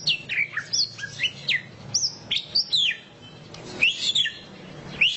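White-rumped shama singing: a quick series of clear whistled notes, most sliding downward in pitch, with a brief pause about three seconds in before it resumes.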